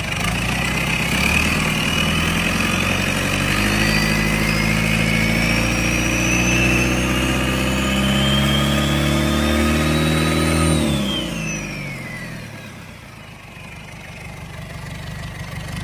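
FAW engine running, its speed climbing steadily for about ten seconds with a whine rising alongside, then dropping quickly back to a lower, quieter idle about eleven seconds in.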